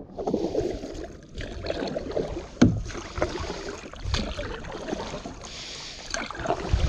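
Water splashing and sloshing around a fishing kayak as it is paddled, with a few sharper splashes, the loudest about two and a half seconds in.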